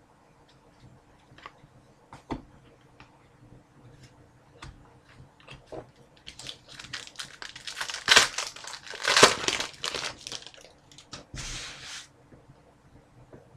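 Trading cards and a card-pack wrapper being handled: scattered light clicks and rustles at first, then about six seconds of dense crinkling and tearing in the second half.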